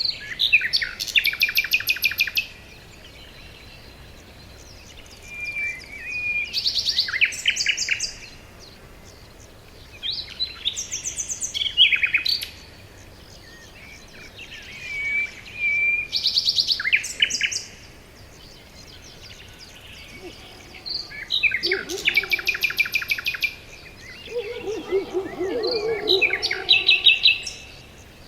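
Forest birdsong: a songbird repeats a high-pitched phrase of rapid, trilled notes about every five seconds, six times in all. A second, much lower warbling call joins in the last third.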